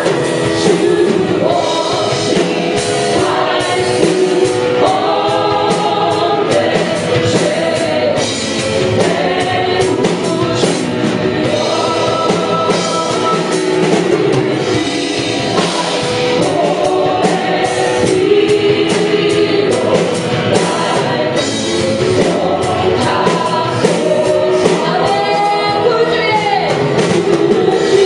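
Live worship music: a praise band playing while the congregation and singers sing together.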